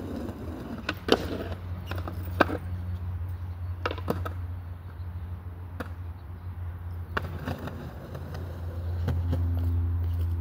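Skateboard wheels rolling with a steady low rumble, broken by several sharp clacks of the board hitting the ground.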